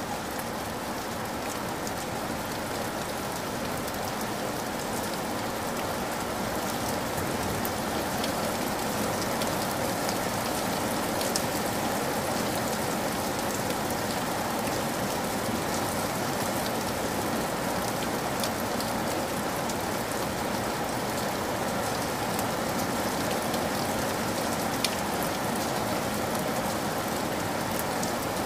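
Steady rain falling, an even hiss flecked with scattered sharper drop taps.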